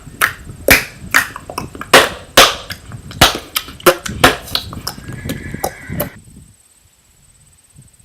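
A rapid, irregular series of sharp cracks or knocks, about two or three a second, that stops about six seconds in.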